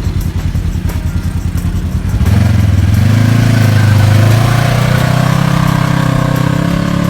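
Side-by-side UTV engine idling with a fast, even putter, then revving up about two seconds in and holding a louder, steady note as it pulls away.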